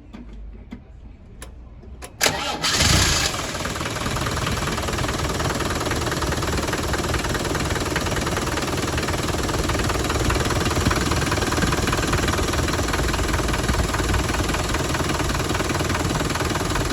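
Land Rover Defender engine cold-started: after a few faint clicks, it fires about two seconds in with a brief loud burst, then settles into a steady idle.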